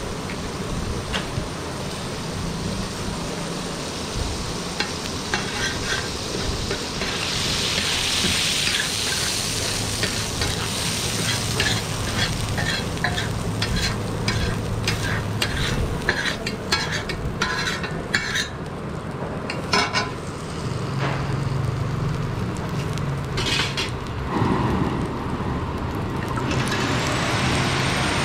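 Egg-and-butter mixture sizzling on a large flat iron griddle (tawa), while a flat steel spatula scrapes and clacks against the griddle in quick runs of strokes through the middle. Near the end a steadier, louder hiss takes over.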